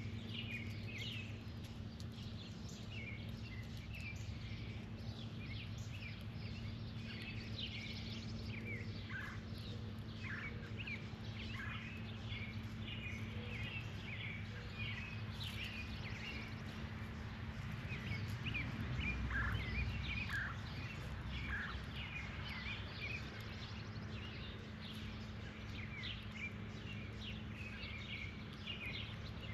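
Outdoor birds chirping and twittering, many short calls overlapping, over a steady low hum. A low rumble swells about two-thirds of the way through and fades again.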